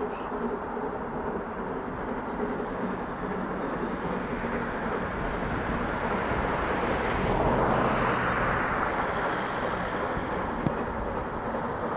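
Steam train passing: a steady rushing noise that swells to its loudest about eight seconds in, then eases.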